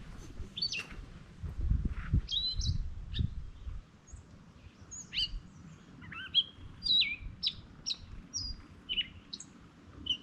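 Several songbirds calling, a quick run of short chirps and down-slurred whistled notes. A low rumble sits under the first few seconds.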